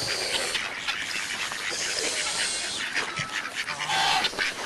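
A flock of ducks and geese calling, many short calls overlapping.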